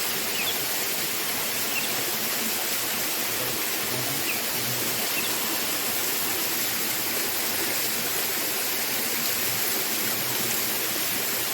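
Waterfall cascade running with a steady, even rush of water.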